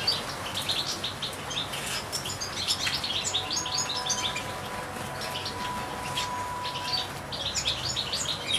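European goldfinches twittering, a dense run of short high chirps that thins out briefly about seven seconds in before picking up again.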